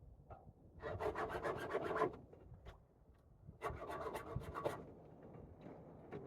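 Chainsaw chain being sharpened with a hand file: two bursts of quick rasping file strokes, each about a second long, with a pause between them.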